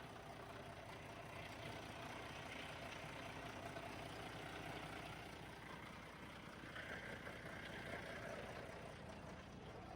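A truck's engine idling steadily, a low, even running sound.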